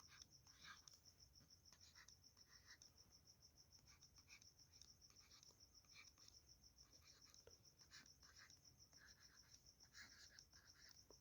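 Faint scratching of writing by hand, in short irregular strokes, over a steady high-pitched trill.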